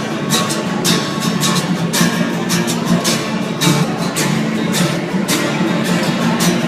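Acoustic guitar strummed in a steady, driving rhythm, about two to three strokes a second, with no singing.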